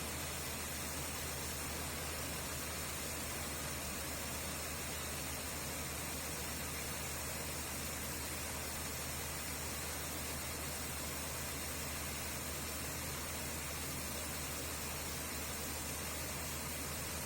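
Maxxi Corn G85 combine harvester running steadily while harvesting corn: a constant, even hiss-like machine noise with a low steady hum underneath.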